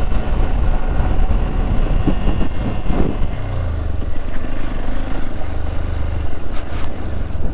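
Hero XPulse 200 motorcycle riding at steady road speed: a steady low rumble of the engine and passing wind.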